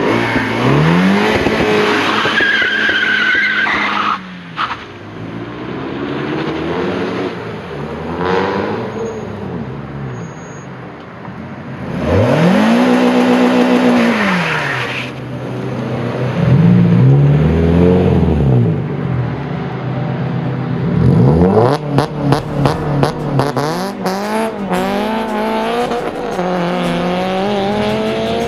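Renault Sport cars driven hard: engines revving up and down through the gears as cars pass at speed, with tyre squeal. Near the end, a quick run of sharp cracks and pops.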